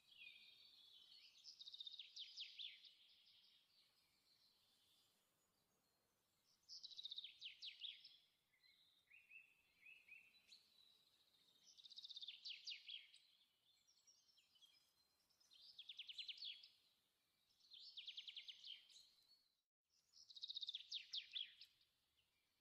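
Faint bird song: short, rapid trilled phrases repeated every few seconds.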